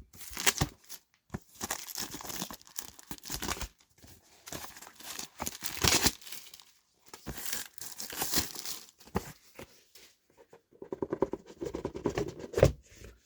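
Packaging crinkling and tearing in irregular bursts as a board game box is opened and its contents are unpacked by hand.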